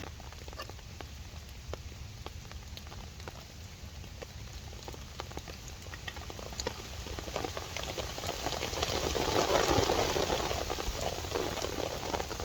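Rain pattering steadily, with single drops ticking throughout. A louder rushing noise swells about two-thirds of the way through and dies away near the end.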